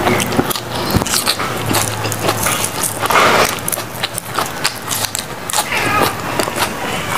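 Close-miked chewing of raw leafy greens: a dense run of irregular wet crunches and crackles as the fresh leaves and stems are bitten and chewed.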